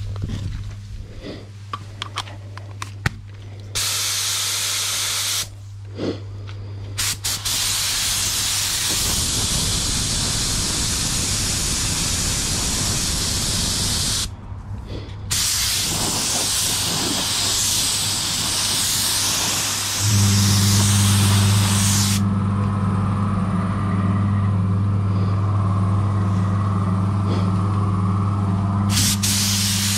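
Paint spray gun hissing in long passes with short pauses between them, over a steady low hum that grows louder about twenty seconds in.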